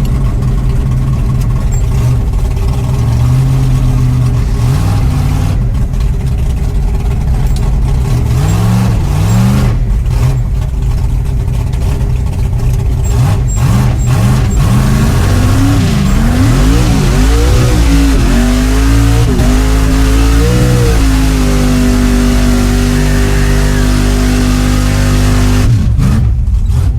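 Truck engine running loudly, blipped a few times, then revved up and down repeatedly and held at a steady higher speed before dropping off near the end.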